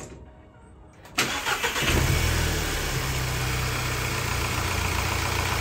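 Volkswagen Golf GTI's 2.0-litre EA888 turbocharged four-cylinder starting about a second in and settling into a steady idle, its first start after an oil and filter change.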